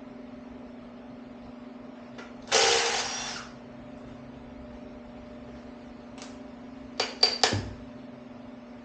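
Tools and parts being handled during an LT-1 V8 engine teardown: a scraping burst lasting about a second a few seconds in, then three or four sharp clicks or knocks near the end. A steady low hum runs underneath.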